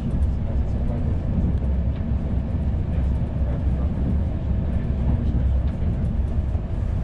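Steady low rumble of a CP Intercidades passenger train, heard from inside the coach while it runs along the line.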